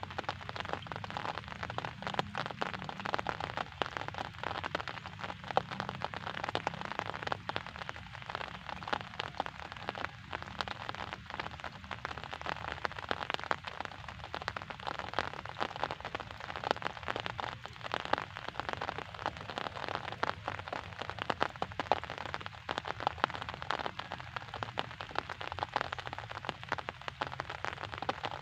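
Steady rain: a dense, even spray of small drop impacts with a low rumble underneath.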